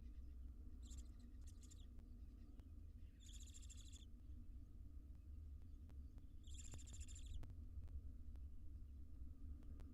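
Barn owl in a nest box giving hissing, rasping calls: three short bursts a few seconds apart, the first broken into quick pulses. A steady low hum runs underneath.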